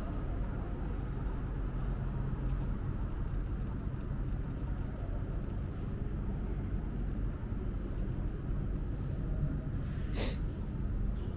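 Steady low rumble and hum of a subway station platform, typical of trains and station machinery, with one brief hiss about ten seconds in.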